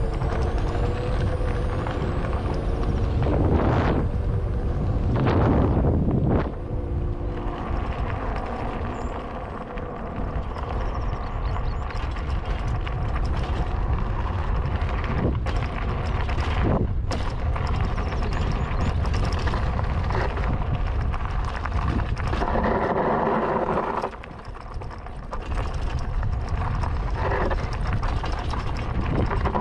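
Riding a modded Juiced Scrambler e-bike: wind rumbling on the camera microphone over road noise, with a steady faint whine from the electric motor. The rumble swells a few seconds in and drops briefly about three-quarters of the way through.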